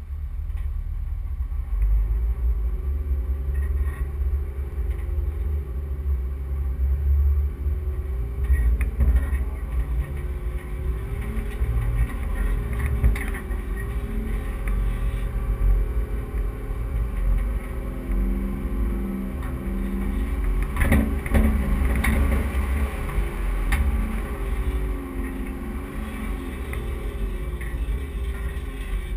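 Four-wheel-drive vehicle driving over soft beach sand and dunes, its engine note rising and falling as the throttle works, over a heavy low rumble. A few sharp knocks or rattles come about two-thirds of the way through.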